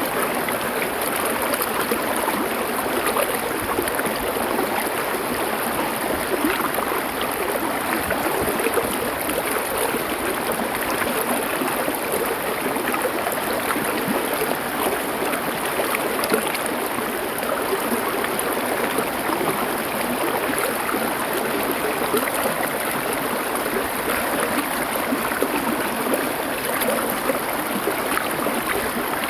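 Small river or stream flowing over stones: a steady, dense rush of water with fine gurgling and splashing.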